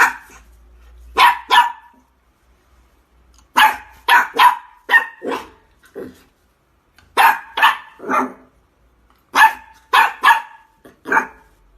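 Dog barking loudly and repeatedly, in quick runs of two to four barks with short pauses between.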